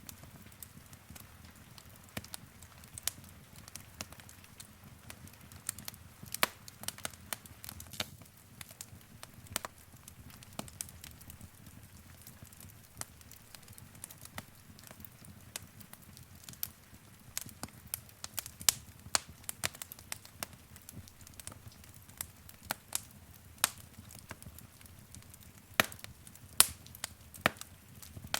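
Wood fire burning in a fireplace, crackling with irregular sharp pops and snaps over a low steady rumble of the flames; a few pops stand out louder, several in the second half.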